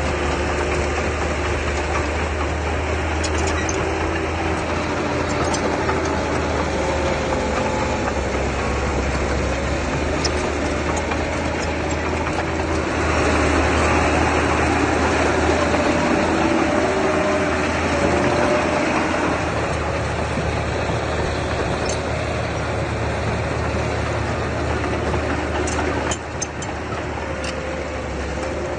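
Diesel engine of earthmoving machinery running steadily with a deep drone, working harder and louder for several seconds midway before settling back.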